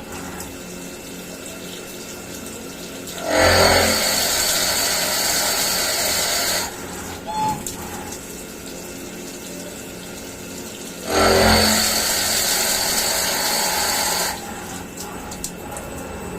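CNC milling machine at work: a steady machine hum, broken twice by a loud, even rushing hiss that lasts about three seconds, starting with a short low thump, the second about eight seconds after the first.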